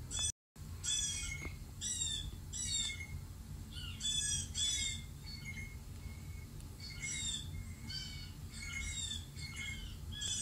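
A bird's harsh squawking calls, about a dozen short falling calls in loose groups of two or three.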